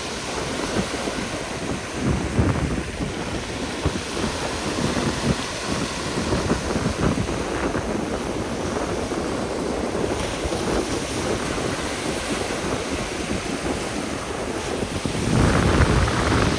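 Strong wind buffeting the microphone over the wash of sea waves breaking on the beach, growing louder near the end.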